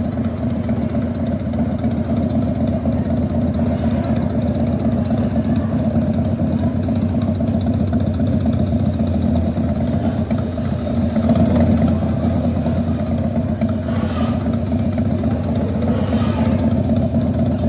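Steady low engine-like rumble from a motorbike-themed roller coaster vehicle, running without letup, with no sudden change.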